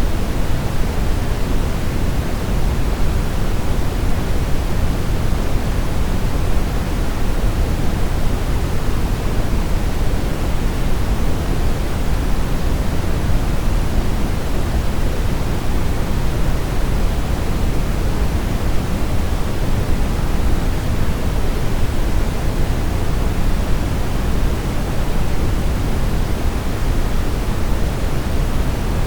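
Steady brown noise: an even, deep rushing hiss, strongest in the low end, that does not change.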